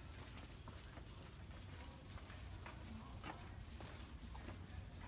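Night insects giving one steady, unbroken high-pitched trill, with a few faint ticks under it.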